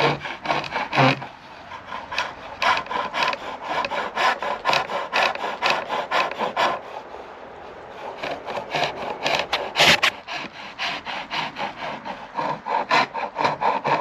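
Blunt homemade chisel cutting a tenon on chestnut turning on a pole lathe: rapid, repeated scraping strokes of steel on wood. The strokes pause briefly twice.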